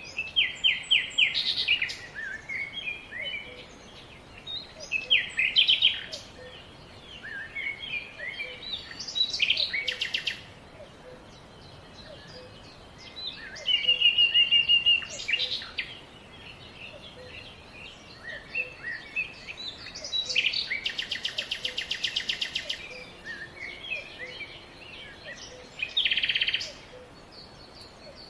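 Several songbirds singing and calling: bursts of chirps and quick trills with short pauses between them, and a fast, even rattling trill about twenty seconds in.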